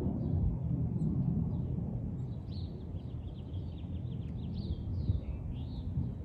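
Birds chirping in quick, repeated high notes, thickest in the second half, over a low rumble that fades away at the start.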